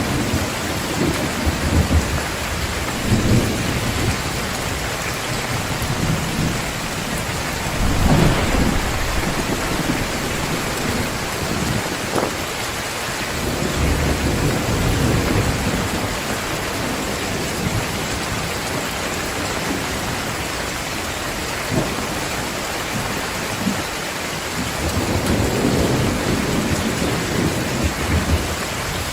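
Heavy downpour of rain hissing steadily, with low rolls of thunder swelling several times, most strongly about eight seconds in and again near the end.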